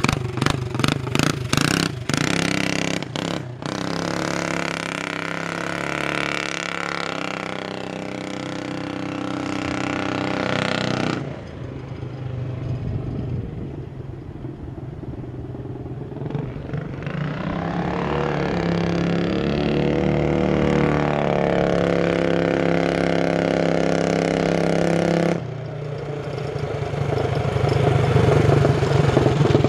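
Coleman CT200U minibike's single-cylinder four-stroke engine running through a side-exit loop exhaust pipe, its pitch climbing and falling as it is revved. A string of sharp knocks comes in the first few seconds, the engine note drops suddenly about eleven seconds in, climbs again, and falls off abruptly near the end.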